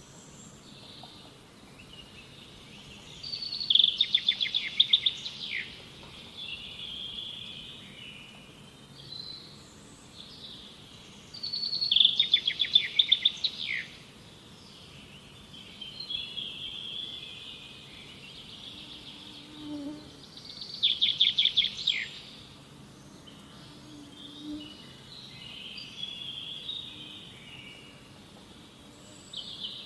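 A bird singing: a loud, rapid trilled phrase about two seconds long, repeated three times about eight seconds apart, with softer chirps between.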